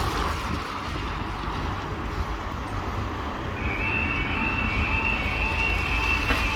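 Level crossing warning alarm starts sounding about halfway through, a steady, slightly wavering high tone, over a low rumble of wind on the microphone and traffic.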